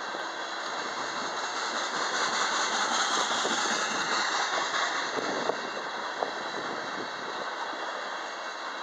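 Tank cars of a long freight train rolling past: a steady rush and rumble of steel wheels on the rails that swells for a few seconds partway through, with a couple of sharp clicks a little past halfway.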